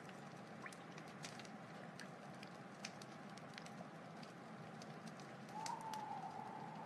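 Wood fire crackling: a steady hiss with frequent sharp pops and snaps. About five and a half seconds in, a louder steady tone joins the crackle.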